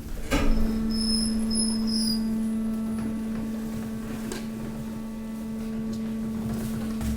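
Hydraulic waste compactor running as it presses mixed waste: a steady, even machine hum, with a few short high squeaks about one to two seconds in.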